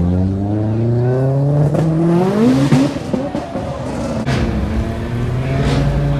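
Car engine revving, its pitch climbing for nearly three seconds, then breaking off into a rough, uneven stretch with sharp cracks before settling into a steady lower engine note.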